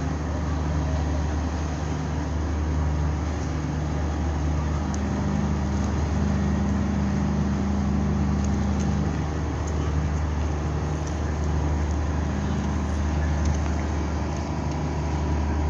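Steady low engine rumble, with lower tones that switch on and off every second or two, over a faint murmur of voices.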